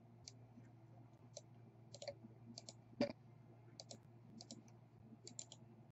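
Faint computer mouse clicks, single and in quick pairs at irregular intervals, with one sharper click about three seconds in, over a low steady hum.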